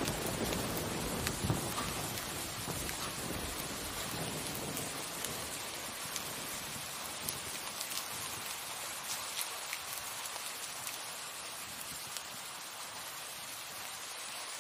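Steady rain falling, an even hiss with scattered patters of individual drops. A low rumble underneath fades out over the first five or six seconds.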